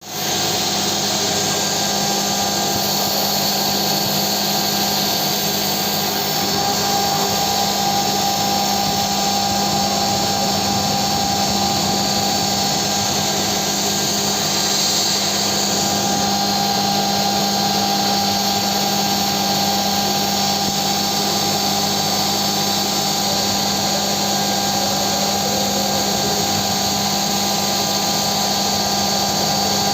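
CNC milling machine running steadily: a constant machine whine with several steady tones over a noisy hiss, unchanging throughout.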